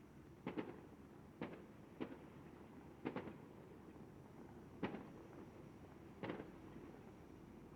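Faint fireworks bursting: about seven sharp bangs at uneven intervals, a couple of them in quick pairs, over a steady low background noise.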